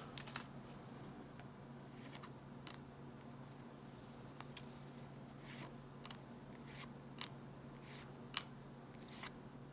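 Faint, scattered clicks and slides of baseball cards being flipped through one at a time, over a low steady hum.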